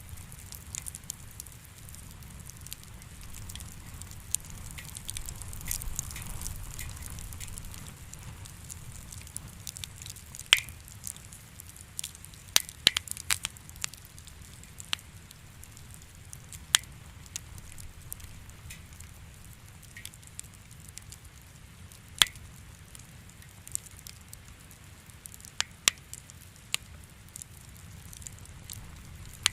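Wood fire in a fireplace crackling: irregular sharp pops, a second or several apart, over a soft steady low rumble and hiss.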